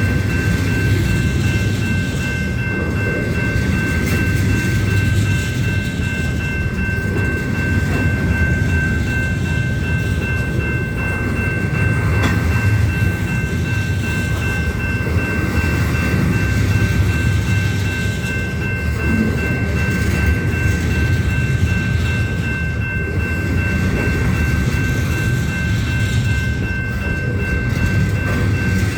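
Union Pacific train's cars rolling steadily past on the rails: a continuous low rumble that swells and eases every few seconds, with a few thin, steady high-pitched tones ringing over it.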